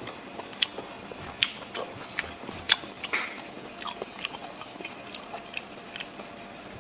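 Close-miked chewing of soft blood sausage: irregular wet mouth clicks and lip smacks, about two a second.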